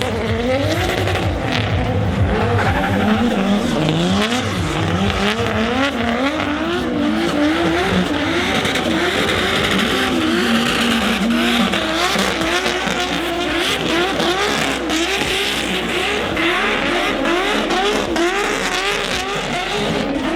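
Several drift cars on track, engines revving up and down rapidly and overlapping as the drivers work the throttle through drifts, with tyres squealing.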